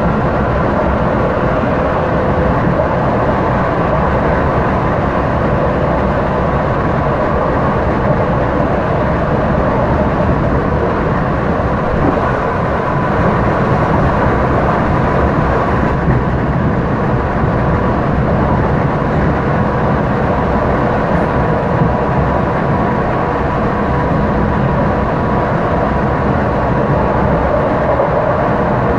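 Electric commuter train running at speed, heard from inside the carriage: a steady rumble of wheels on rails, with a faint steady hum running through it.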